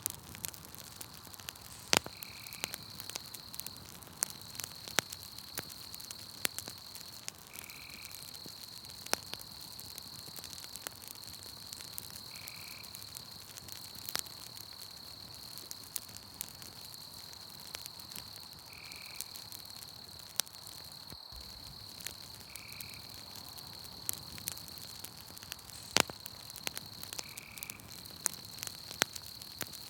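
Campfire crackling, with sharp pops scattered throughout, over a steady high-pitched insect trill and a short call that repeats every few seconds.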